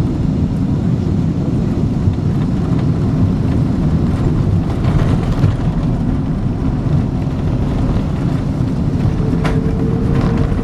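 Steady low rumble inside the cabin of a Boeing 777-200 as it comes in to land, with a faint steady tone joining near the end.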